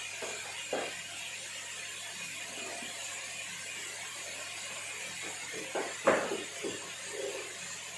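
Mushrooms sautéing with browned onion and garlic in a pan, sizzling steadily, with a few knocks and scrapes of a utensil against the pan; the loudest knock comes about six seconds in.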